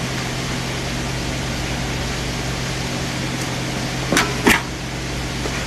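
Steady hum of kitchen machinery running, with two short sharp knocks about four seconds in, half a second apart, the second one louder.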